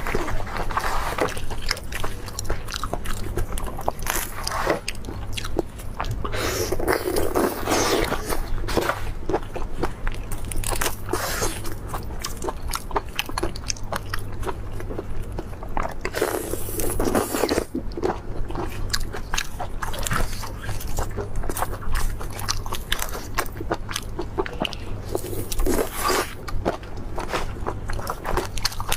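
Close-miked eating of raw drunken shrimp: irregular biting and chewing with many crisp crunches and clicks, plus a few louder, wetter stretches of eating, over a low steady hum.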